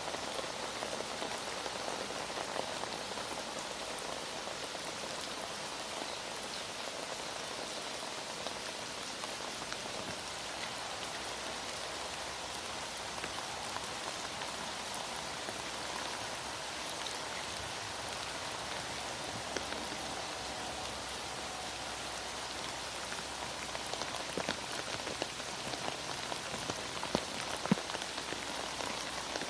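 Heavy rain falling steadily, an even dense patter, with a few sharper clicks near the end.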